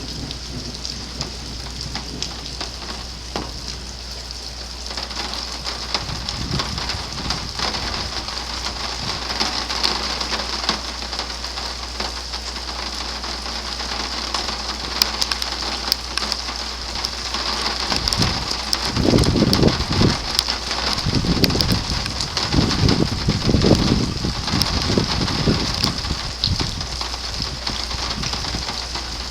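Heavy rain falling during a thunderstorm: a steady hiss with many sharp drop hits close to the microphone. Past the middle, several loud low rumbles come and go for about eight seconds.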